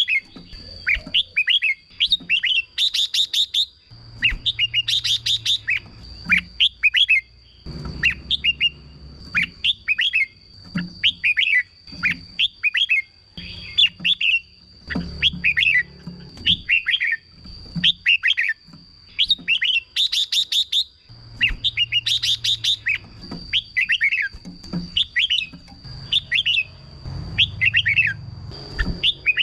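Red-whiskered bulbul singing a long run of short, chirpy whistled phrases, one after another with brief pauses. A thin steady high whine runs underneath.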